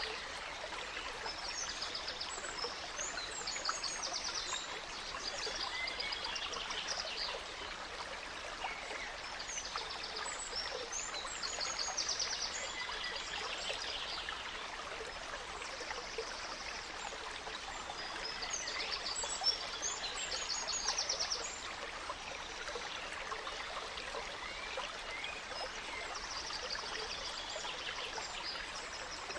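A gentle stream running steadily, with songbirds singing over it in recurring bursts of quick, high chirps and trills, about five times.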